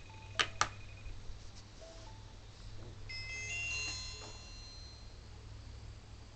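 Two sharp clicks, then, about three seconds in, a short electronic chime of several high tones from a small test speaker driven by a QCC3008 Bluetooth audio module, a ringtone-style alert for an incoming phone call.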